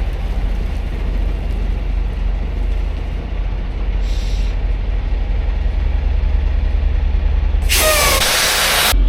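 Semi-truck's diesel engine running with a steady low drone. Near the end, a loud hiss of air about a second long, with a brief falling squeal, as the truck's air brakes are set.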